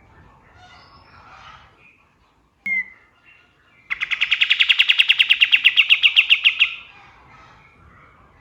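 Kapas tembak song: soft chattering calls, a single sharp note a little under three seconds in, then a loud rapid trill of about ten clipped notes a second for nearly three seconds, its rapid-fire 'tembakan' burst.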